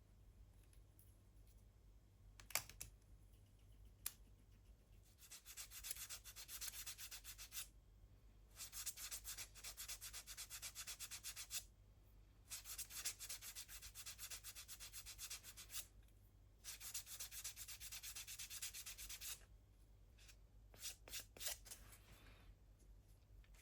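Hand sanding of a small plastic model-kit part: four bouts of quick back-and-forth scratchy strokes, each about three seconds long with short pauses between, faint overall. A few light clicks of parts or tools being handled come before and after.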